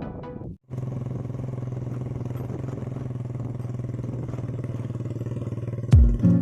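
An engine running steadily at an even speed, with a low, constant hum. Near the end, music with sharp plucked notes cuts in.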